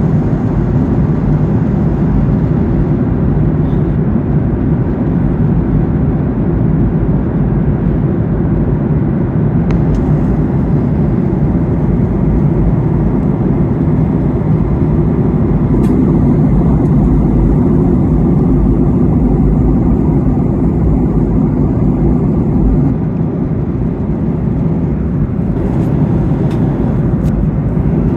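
Steady roar of a Boeing 737-800 in flight, heard inside the passenger cabin: engine and airflow noise, deepest in the low range. The level eases slightly about two-thirds of the way through, and a few faint clicks come near the end.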